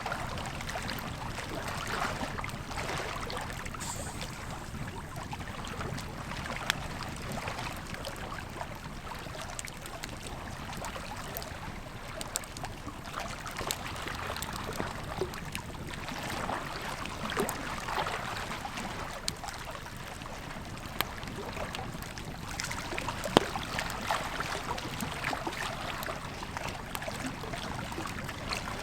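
Wood campfire crackling, with scattered sharp pops, over the steady rush of a flowing river.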